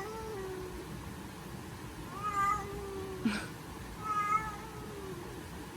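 A domestic cat meowing twice, short calls about two seconds apart, with a brief click between them.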